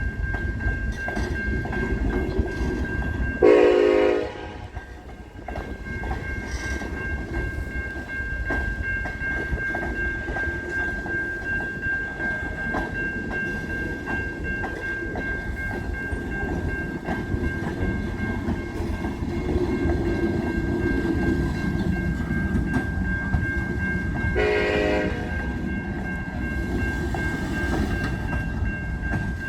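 Diesel freight train running with a steady rumble, and two short locomotive horn blasts, the louder one about four seconds in and another near the end.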